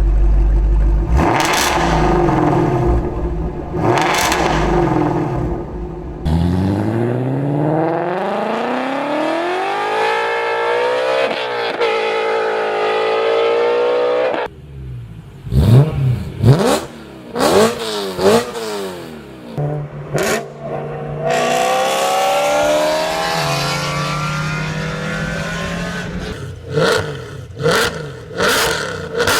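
Performance car exhausts in a run of short clips that cut from one car to the next: sharp revs, a long pull with the engine note climbing, quick throttle blips, then another climbing pull and more fast blips near the end.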